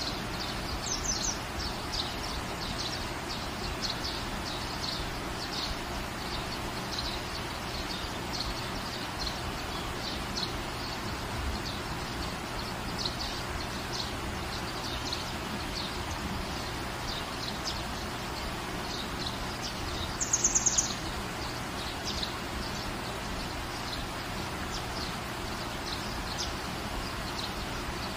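Steady rain falling on a garden, with birds chirping now and then through it. About two-thirds of the way in, a bird gives a quick run of about five high notes, the loudest sound here.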